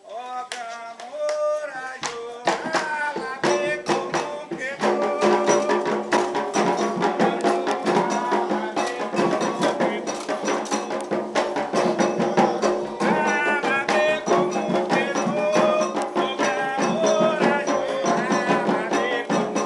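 Candomblé ritual chant: a single voice starts the song, and about two seconds in, hand percussion comes in and more voices join, keeping a steady fast rhythm.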